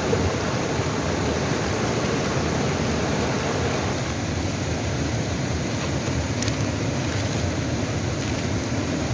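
Steady rushing of a mountain stream flowing over rocks, an even noise that holds the same level throughout.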